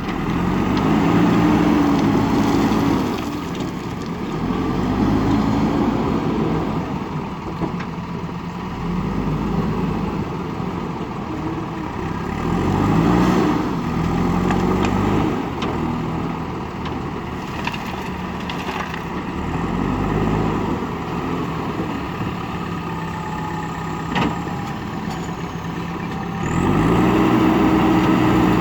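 Diesel engine of a JCB backhoe loader running while it works, revving up and settling back several times as the load on it changes. A single sharp knock comes about two-thirds of the way through.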